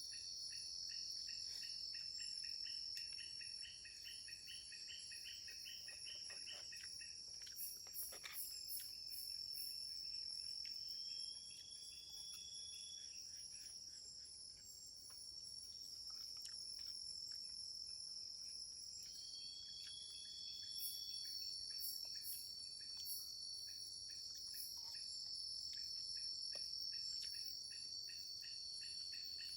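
Night forest insect chorus: a steady high-pitched drone with a fast pulsing chirp that stops about seven seconds in. Two short whistled notes stand out, and a few soft clicks come near the eight-second mark.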